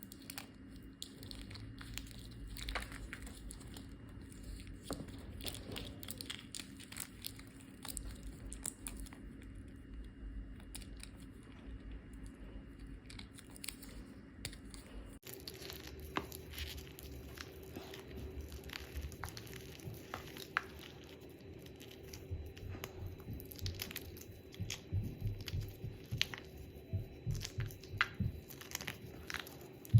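Hard reformed (re-compressed) gym chalk being crushed and crumbled by hand: a long run of dry crunches and crackles, denser and louder in the second half.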